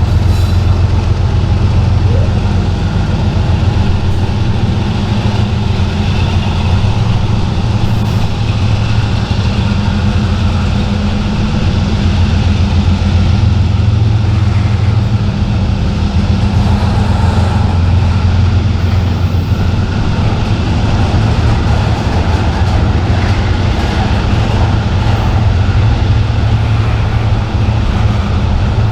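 Diesel locomotive engines running steadily, a continuous low hum under train noise.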